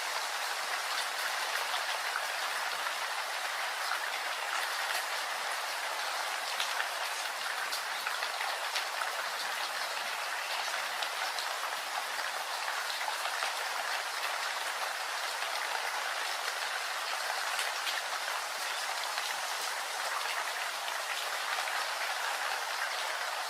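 Steady rain falling: an even hiss with many small ticks of individual drops.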